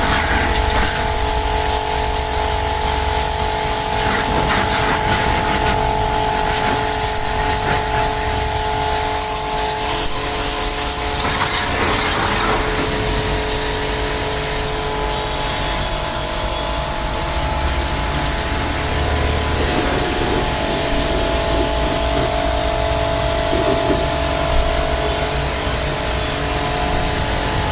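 Portable high-pressure car washer running steadily: a motor and pump hum with a few held tones over a continuous hiss of spray.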